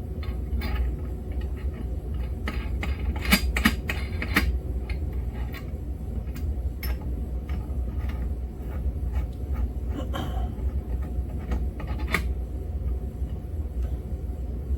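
Metal clinks and knocks of a crank puller and its adapter being handled and fitted on a two-stroke engine's crankcase, in scattered clusters over a steady low hum.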